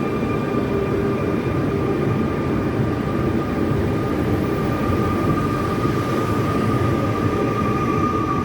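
Electric train running through the station: a steady heavy rumble with a steady high whine over it.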